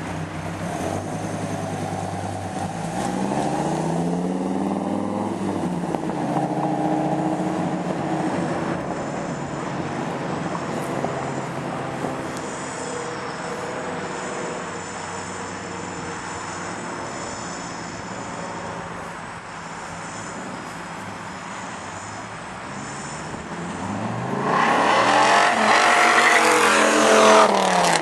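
Dodge Viper's V10 engine running, rising and falling in pitch about three seconds in, then going loudest near the end as it climbs in pitch and drops away again.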